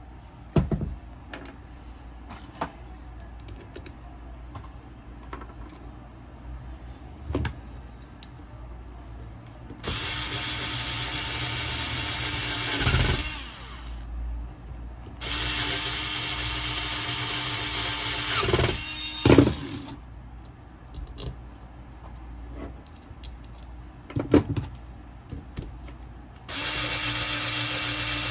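Electric angle grinder switched on and run three times for a few seconds each, running at a steady speed, with a falling whine each time it is switched off and spins down. Clicks and knocks from handling come between the runs. This is a test run after the gearbox has been regreased to cure a strange noise.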